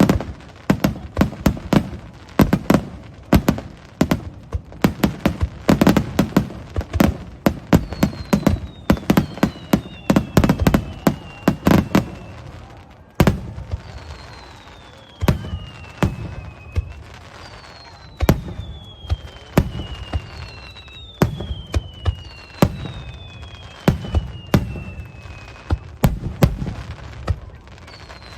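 Fireworks display: a rapid barrage of sharp bangs for about the first twelve seconds, then single bursts every second or two, with several whistles that fall in pitch over about two seconds each.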